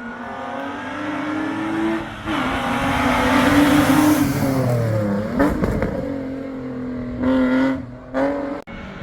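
Historic rally car engine at full throttle: revs climb, there is a gear change about two seconds in, and the car passes loudly. The pitch then falls as it goes by, followed by several short throttle blips near the end.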